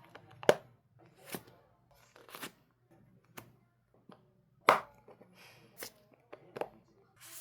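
Plastic sleeves and packing materials handled while packing photocards: a series of separate short crinkles and taps, about one a second, the loudest about four and a half seconds in.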